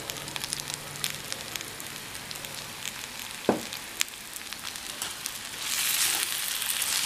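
Eggplant slices and masala frying in oil in a kadai on a medium flame, a steady sizzle scattered with small crackles. One sharp clink comes about three and a half seconds in. Near the end, stirring starts with a spoon, and the sizzle turns louder and denser.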